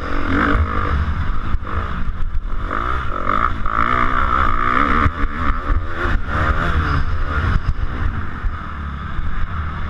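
250cc motocross bike engine revving up and down as it is ridden, heard from an onboard action camera, with wind buffeting the microphone.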